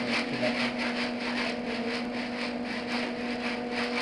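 MIG welder arc crackling steadily as a bead is run, with a constant electrical hum underneath.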